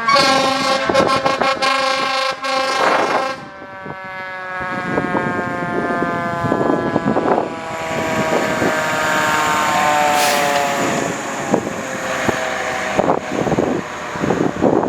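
Fire engine's air horns blasting for about three and a half seconds, then its siren sounding on with a slowly falling pitch as the engine passes.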